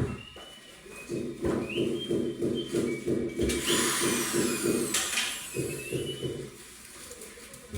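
Rapid, even rubbing strokes on wood, about five or six a second, with a few high squeaky glides in the middle.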